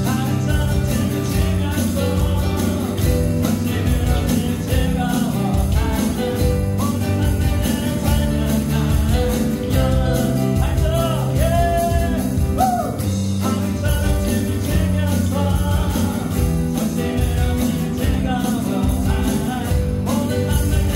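Live worship band playing an upbeat song just after a four-count: electronic drums with a bright jingling high percussion, bass guitar, keyboard and acoustic guitar.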